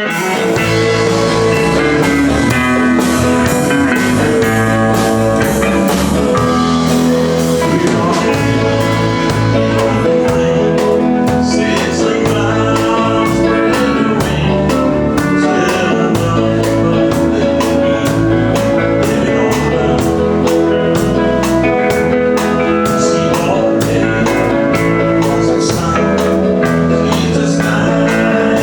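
Live country-rock band playing: electric guitar and bass over drums with a steady beat. The music starts abruptly at the outset.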